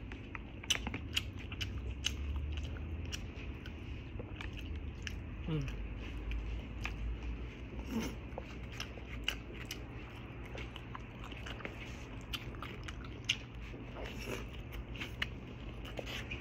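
People chewing and biting food close to the microphone, with many scattered short sharp clicks and a low steady hum underneath.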